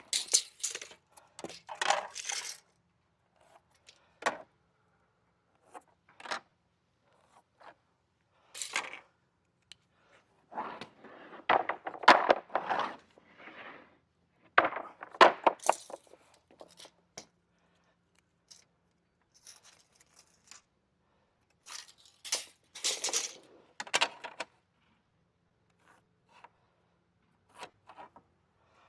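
Intermittent clattering, rattling and scraping of tools and small metal hardware being handled, in short clusters of clicks and knocks a few seconds apart.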